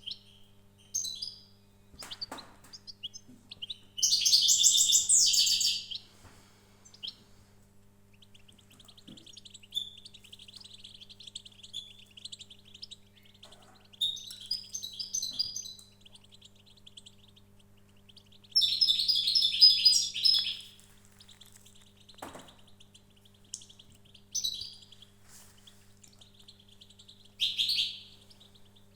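A small songbird singing: rapid twittering chirps, broken by loud, dense trilled phrases about four seconds in, around nineteen seconds in and again near the end. A faint steady low hum runs underneath.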